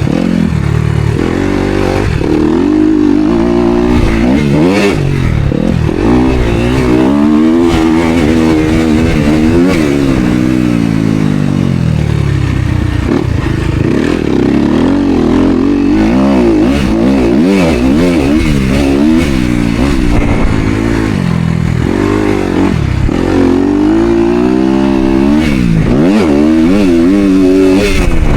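Motocross bike engine being ridden hard, its pitch climbing and dropping again and again every couple of seconds as the throttle is opened and closed through the gears.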